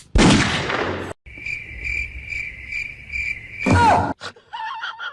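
A high, steady chirping trill pulsing about four times a second, like a cricket's. It comes between two short loud rushes of noise, the second with a falling tone.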